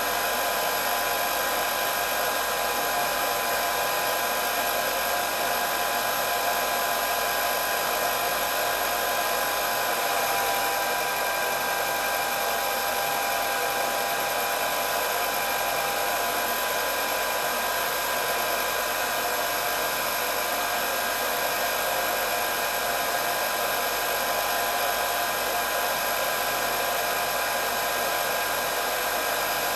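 Electric hair dryer running continuously: a steady rush of blown air with a motor whine of several fixed high tones that holds unchanged throughout.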